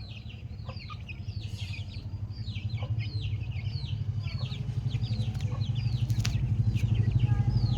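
Chickens giving quick, high, falling chirps, several a second, over a low rumble that grows steadily louder.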